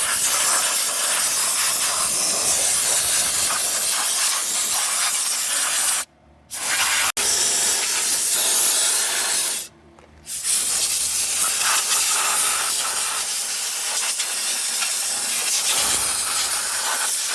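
Pressure spray hissing steadily against an aircraft engine during degreasing, stopping briefly twice, about six and about ten seconds in, then starting again.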